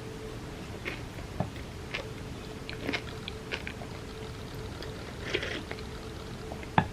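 Close-miked eating: wet chewing and soft mouth clicks from chocolate cake soaked in milk. There is a brief crackle a little past halfway and a sharp knock near the end.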